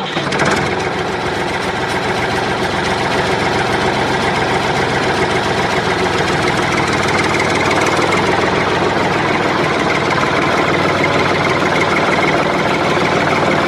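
Tractor engine running steadily at idle, a stock sound-effect recording; it cuts in suddenly at the start.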